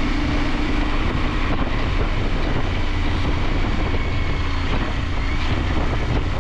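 KTM 890 Adventure's parallel-twin engine running at a steady pitch while riding, mixed with wind noise on the microphone.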